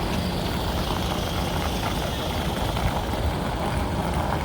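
Steady low rumble of an idling engine, with voices in the background.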